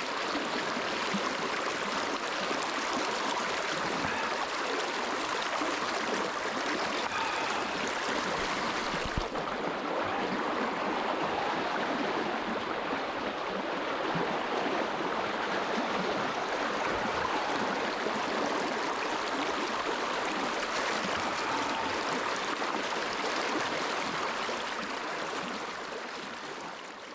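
Fast river water churning and rushing: a steady, dense rush of water that fades out near the end.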